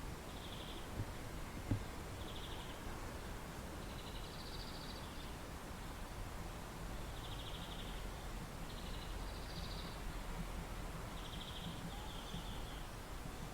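Short buzzy chirps, each about half a second long, recurring every second or two over a steady low outdoor rumble, with two light knocks about a second in.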